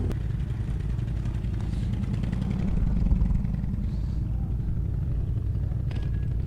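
ATV engine running at low revs, swelling briefly about three seconds in.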